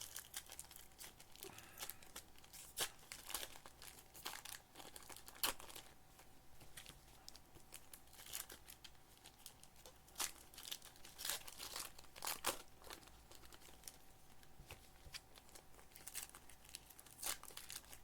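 Trading card pack wrappers crinkling and tearing, with irregular sharp crackles as packs are ripped open and handled.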